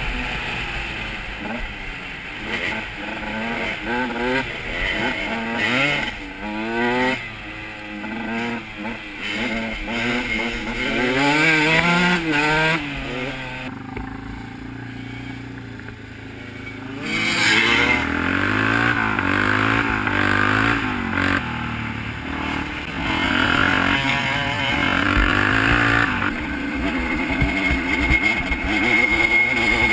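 Off-road motorcycle engines revving up and down while riding, the pitch rising and falling over and over. They drop to a quieter stretch near the middle, then rev hard again.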